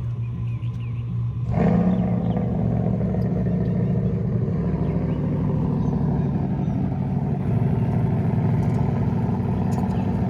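Car engine running steadily, getting suddenly louder and deeper about a second and a half in and staying at that level.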